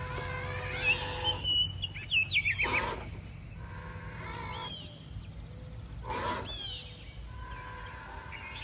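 Birds calling in short rising and falling chirps, with two louder harsh calls about two and a half and six seconds in, over a steady faint hum.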